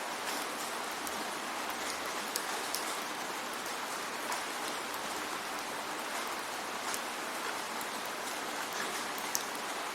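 Steady rainfall: an even hiss of rain with scattered single drops ticking sharply on a surface.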